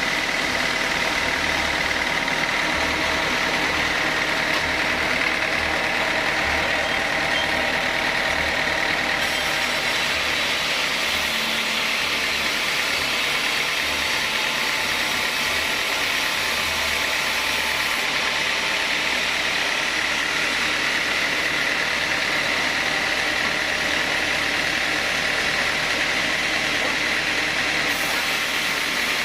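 Sawmill saw running steadily, a constant machine drone with a steady high whine.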